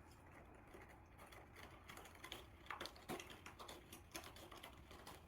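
Faint, irregular light clicks and taps over a low steady hum, coming more often from about two seconds in.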